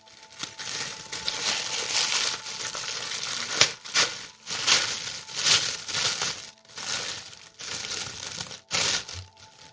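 Paper packaging being crinkled and pulled off a toy as it is taken out of its box, in repeated bursts of rustling with a few sharper crackles.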